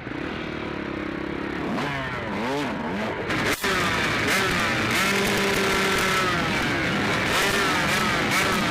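Several motocross bikes racing, their engines revving up and down in pitch as they go through the gears and corners. A brief dropout about three and a half seconds in, after which the engines are louder.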